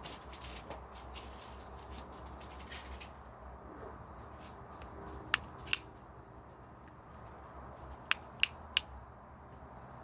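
Parrotlet making short, sharp kissing smacks: two about five and a half seconds in and three in quick succession near the end, with fainter small clicks in the first few seconds.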